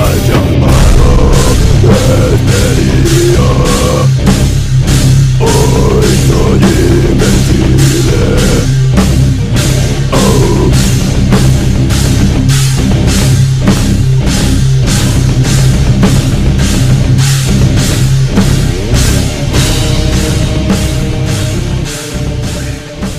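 Heavy rock music with a drum kit keeping a steady beat of about two hits a second, fading out near the end.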